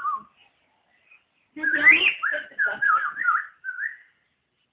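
Pet bird whistling a quick run of short notes that slide up and down in pitch, starting about a second and a half in and lasting a couple of seconds.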